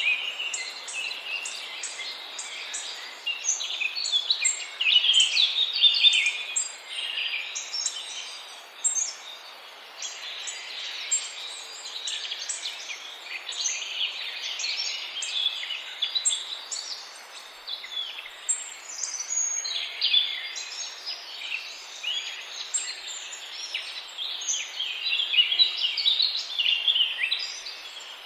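A flock of birds calling all at once: dense, overlapping short chirps and calls with no break, over a steady background hiss.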